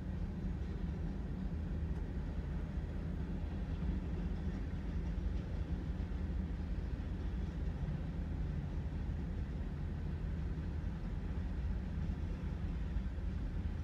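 Freight train of tank cars and covered hoppers rolling past a grade crossing, heard from inside a stopped car as a steady low rumble.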